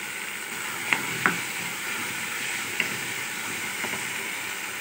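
Fusilli pasta sizzling in hot oil and tomato masala in a kadhai, a steady hiss, with a few sharp clicks of the spatula against the pan as it is stirred, two about a second in and one near three seconds.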